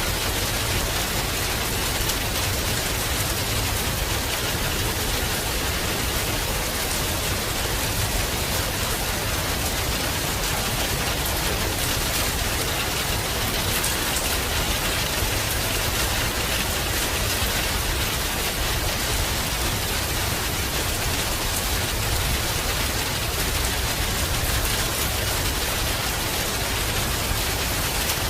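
Heavy rain falling steadily, an even hiss of rain on the ground and leaves with no thunderclap.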